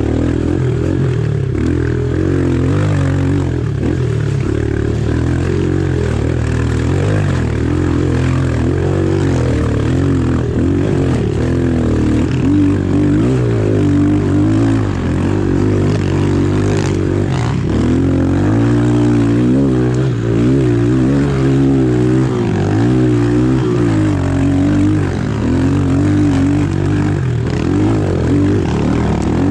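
Pit bike engine running under way, its buzz rising and falling again and again as the throttle is opened and closed.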